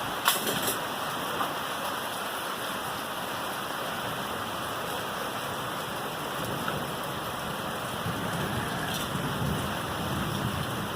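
Heavy rain in a thunderstorm, a steady rushing downpour with a couple of sharp knocks about half a second in. A low rumble of thunder builds near the end.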